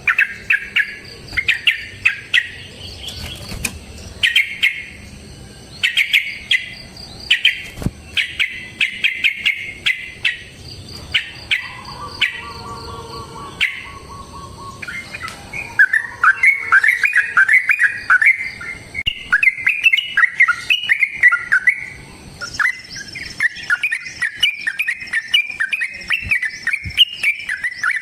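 Yellow-vented bulbul (trucukan) singing long, fast chattering phrases, in separate bursts at first and running almost without a break from about halfway. A thin, steady, high whine joins in near the end.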